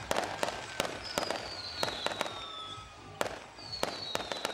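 Fireworks display: aerial shells bursting in a quick, irregular run of sharp bangs and crackles. Two long whistles fall slightly in pitch, one starting about a second in and one near the end.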